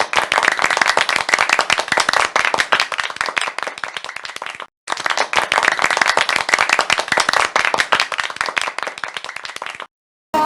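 Audience applauding, with dense, steady clapping. It cuts out briefly about halfway through, then resumes and stops just before the end.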